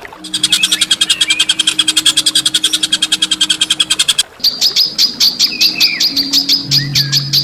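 A songbird calling in rapid-fire runs: a fast rattling string of sharp, high notes at about ten a second for roughly four seconds, then, after a brief break, a slower string of clipped high notes at about six a second. A steady low hum lies underneath.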